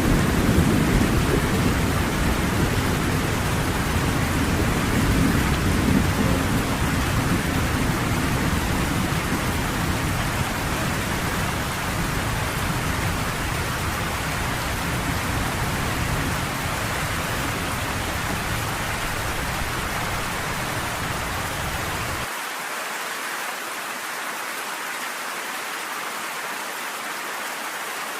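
Steady rain with a low rumble of thunder that fades away over the first several seconds. About 22 seconds in, the low rumble drops out suddenly, leaving only the rain's hiss.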